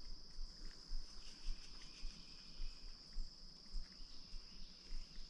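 Insects trilling steadily at a high pitch, with irregular low thumps underneath.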